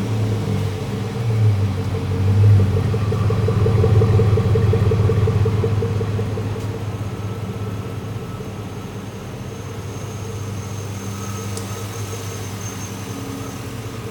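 2005 Chevrolet Silverado's 4.8-litre V8 running, revved up a few times in the first four seconds, then dropping back to a steady idle.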